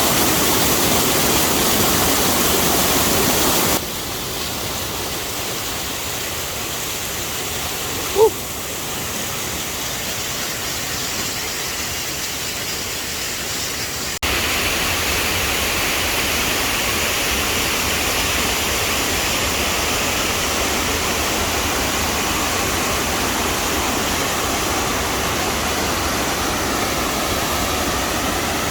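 Rushing water of a fast mountain creek or waterfall, a steady rush whose level jumps abruptly twice. A brief, sharp pitched blip stands out about eight seconds in.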